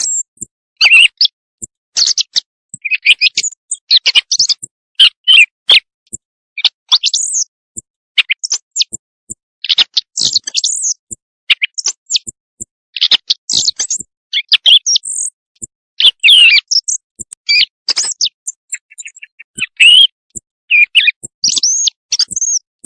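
Common quail calls played as a hunting lure: loud, short chirping calls in quick clusters, with dead silence between the clusters. This is a recording that hunters use to call quail in at night.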